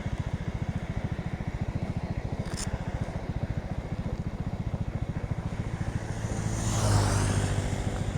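Motorcycle engine idling with a steady, rapid, even beat. About six seconds in, a passing vehicle swells up, peaks and fades.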